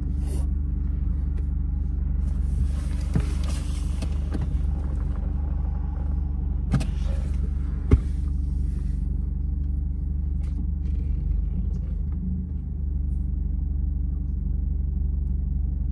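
Steady low hum of a car idling, heard from inside the cabin. Two stretches of breathy hiss, around the two exhales of smoke, and a few light clicks, the sharpest about 8 seconds in, sit over it.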